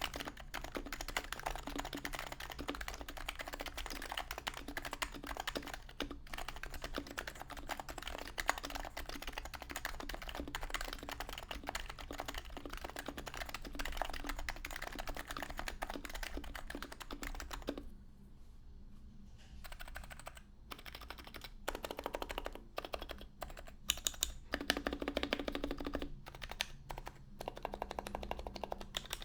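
Fast typing on a Topre electrostatic-capacitive keyboard with aged 45 g HHKB Pro 2 rubber domes, silenced sliders, an aluminium plate and case, and HHKB blank keycaps: a dense run of soft, muted keystrokes. About two thirds through the typing stops for a couple of seconds, then resumes in shorter, more irregular bursts.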